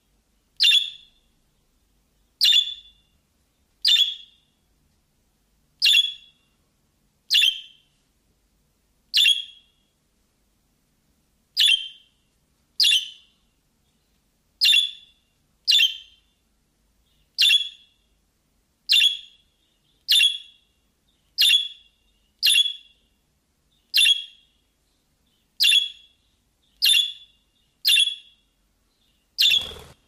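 A short, sharp bird chirp, the same quick falling note repeated about every second. Just before the end there is a single knock.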